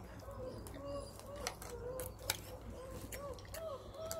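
A bird calling over and over in short arched notes, a few a second, with a couple of sharp clicks in between.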